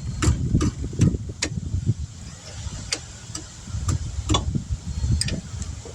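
Scattered sharp clicks and knocks of hand tools on brake parts, about a dozen at irregular intervals, over a steady low rumble.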